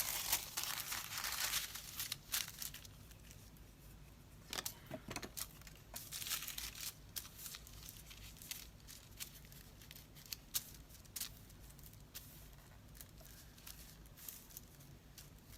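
Paper rustling and crinkling as it is handled, with scattered light taps and clicks; the rustling is densest in the first two seconds or so.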